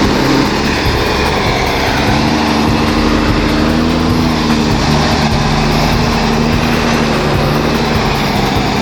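Diesel engine of a loaded logging truck running hard under load, its pitch rising a little about two seconds in and easing back down.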